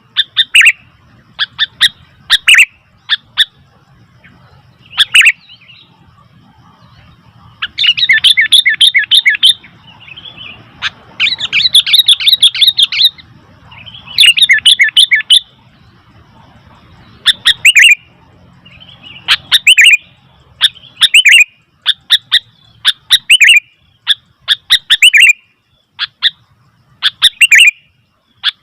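Sooty-headed bulbuls (kutilang) calling: short, sharp chirps repeated at irregular intervals, with three longer runs of quick repeated notes about eight, twelve and fourteen seconds in.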